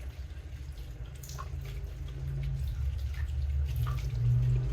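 Water running and dripping as potting medium is rinsed. A steady low rush grows louder, with a few separate drips plinking.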